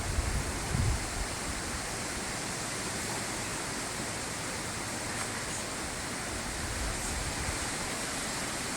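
Steady, even rushing hiss of outdoor background noise, with a short low buffet of wind on the microphone about a second in.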